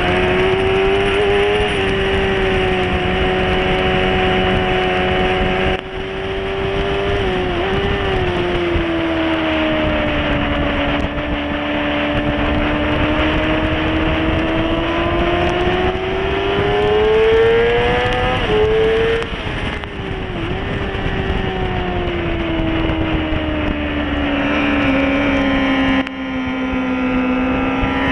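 Sport motorcycle engine heard from an onboard mount, running hard at high revs, its note swelling and sagging with the throttle. Short dips in level come about six, twenty and twenty-six seconds in, where the throttle is closed or a gear is changed. Steady wind rush sits under the engine.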